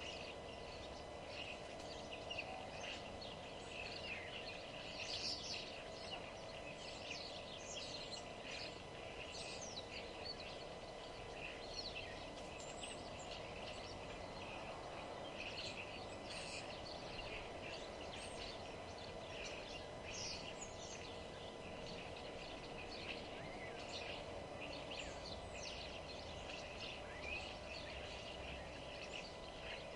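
A chorus of many small birds chirping and singing, with overlapping short high calls and trills coming thick and fast, over a steady low background hum.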